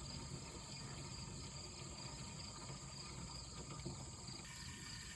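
Faint, steady chorus of insects, a constant high buzzing trill with no change.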